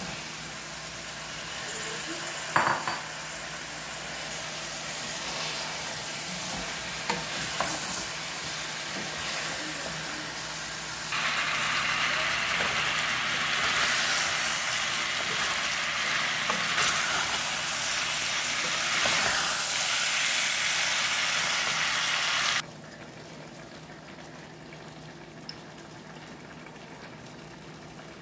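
Chopped vegetables sizzling as they fry in a metal pot, stirred with a wooden spoon; a knock about two and a half seconds in. Partway through, the sizzle grows louder for about ten seconds, then cuts off suddenly to a fainter hiss.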